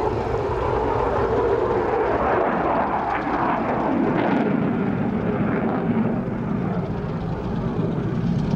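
Fixed-wing display aircraft flying past with a steady, loud engine noise, its pitch dropping about three seconds in.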